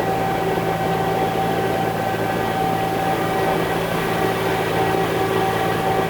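Concrete mixer truck's diesel engine running with a steady drone, a constant whine sitting above it, with no change in pitch.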